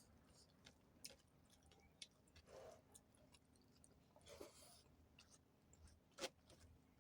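Faint chewing and mouth sounds of a person eating: scattered small wet clicks and smacks, with two brief soft bursts about two and a half and four and a half seconds in and a sharper click near the end.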